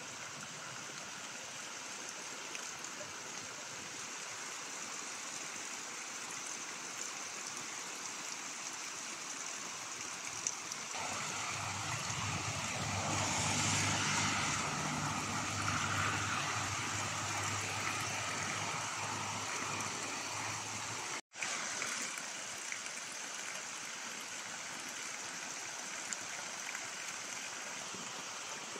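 Steady rain falling on a garden and the roof, with water running off the eave. The rain grows louder for several seconds in the middle, when a low steady hum joins it. The sound cuts out for an instant about two-thirds of the way through.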